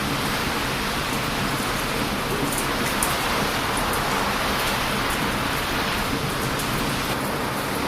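Heavy surf breaking on a beach in strong wind, making a continuous rushing noise, with a wood campfire crackling on top in short, sharp pops.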